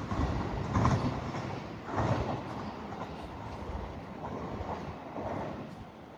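Electric train running along a station track, a steady rumble with heavy thumps about a second in and again at about two seconds, from the wheels passing over rail joints. It dies away near the end.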